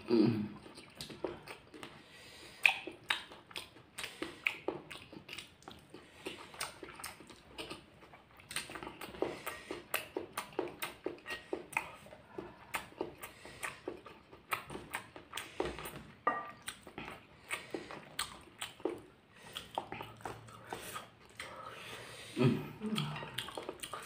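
Close-miked eating: crunches and wet mouth clicks, several a second, as raw chillies and fried egg are bitten and chewed. A short hummed sound comes near the end.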